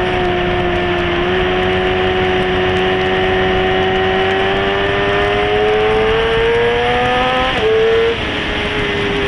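Sport motorcycle's engine running at high revs under acceleration on a race track, its pitch climbing steadily. About eight seconds in the pitch jumps and then drops at a gear change. Wind rushes past the whole time.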